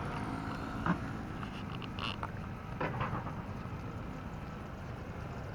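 An engine running steadily in the background as a low, even drone, with a few faint clicks over it.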